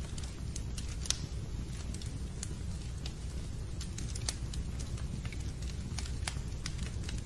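Fireplace fire crackling: irregular sharp pops and snaps over a steady low noise from the burning fire.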